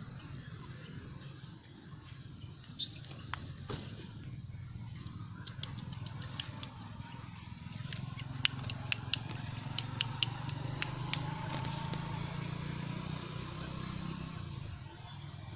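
Monkeys in outdoor ambience: a brief high squeal about three seconds in, then a run of sharp clicks over the following several seconds.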